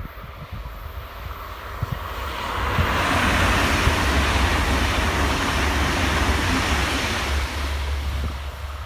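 Deutsche Bahn ICE high-speed electric train passing at speed: a rushing noise of wheels and air that swells from about two seconds in, stays loud for several seconds as the train goes by, then fades.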